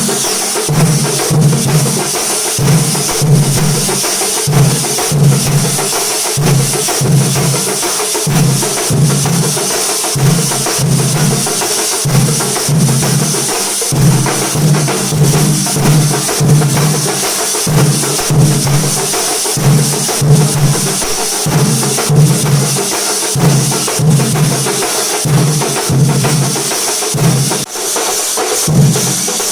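Thambolam percussion ensemble playing loudly: deep drums beating a steady rhythm of about two beats a second under sharp, fast strikes and a constant high shimmer.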